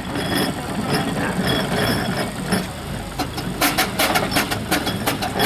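Steam traction engine running, with a quick run of sharp clicks and knocks in the second half.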